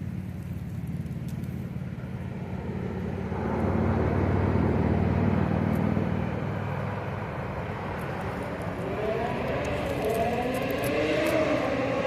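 A motor vehicle's engine running nearby with a steady low hum, then rising in pitch from about eight seconds in as it accelerates.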